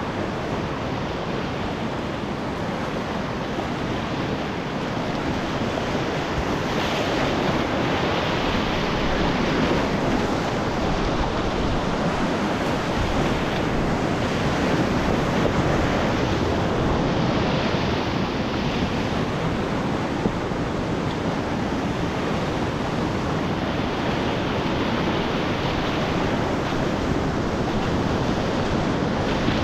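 Whitewater rapids rushing around a kayak: a continuous, loud wash of churning river water that grows louder a few seconds in.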